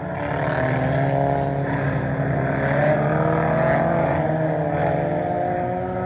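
Several scramble race cars' engines running together around a dirt oval, their pitches overlapping and drifting up and down as the cars accelerate and lift.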